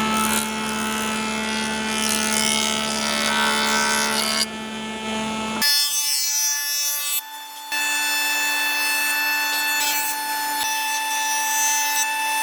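Power tools working wood: a steady motor whine over a rasping cutting noise, which switches abruptly to a different pitch a few times.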